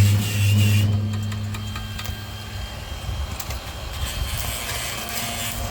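Electric welding arc buzzing with a steady low hum during a tack weld, cutting off about a second in; after it come faint scattered ticks and crackles.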